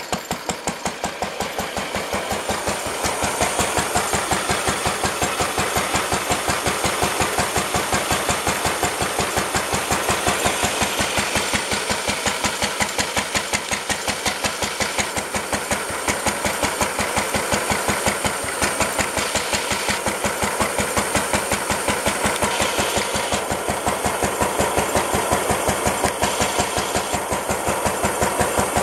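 Lister D single-cylinder stationary engine running steadily with an even beat of firing strokes, belted to a generator. It gets a little louder over the first few seconds, then holds steady.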